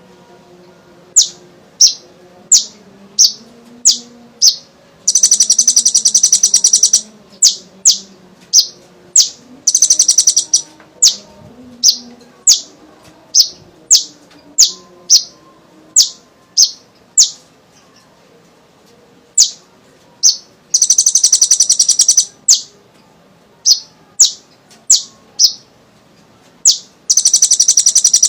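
Kolibri ninja sunbird calling: a run of sharp, high chirps about every two-thirds of a second, broken four times by a rapid trill lasting one to two seconds.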